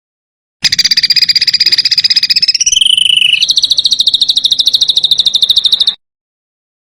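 A small songbird's rapid, harsh rattling trill, about fifteen notes a second, with a brief dip in pitch midway; it starts about half a second in and cuts off abruptly near the end. A rough rapid-fire 'tembakan kasar' call of the kind played as masteran to teach competition songbirds.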